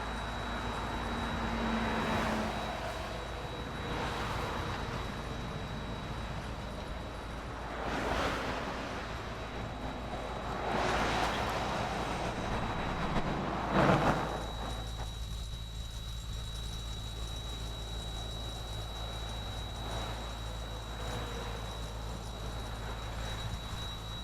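Highway traffic: vehicles passing one after another, each swelling up and fading away over a steady low rumble, the loudest pass a little past halfway.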